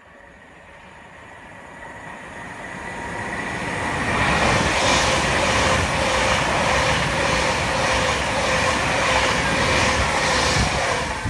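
Passenger train approaching with a steady whine and a rising rush, then running past close below at speed, with a regular beat of wheels over the rails, just under two a second. The sound cuts off sharply near the end as the last carriage clears.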